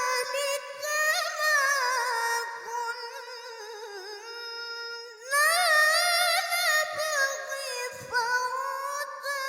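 A female Quran reciter chanting in melodic tilawah style, drawing out long, ornamented melismatic phrases in a high voice. One phrase trails off, and a new, louder and higher phrase begins about halfway through.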